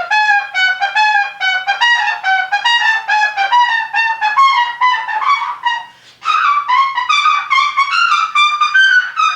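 A single instrument playing an unaccompanied solo: a fast line of short, separate notes with the pitch stepping up and down, and a brief break about six seconds in before the run carries on.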